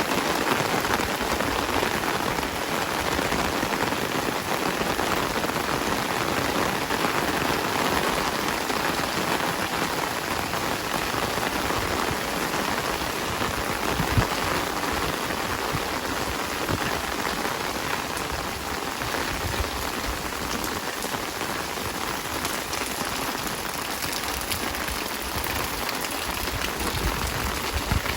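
Heavy rain falling steadily as a dense, even hiss, with one sharper knock about halfway through.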